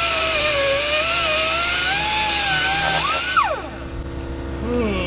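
Power cutting tool, such as an angle grinder with a cut-off wheel, cutting through exhaust bolts: a loud hissing grind with a whine that wavers under load. About three and a half seconds in it is released and its pitch falls as it spins down.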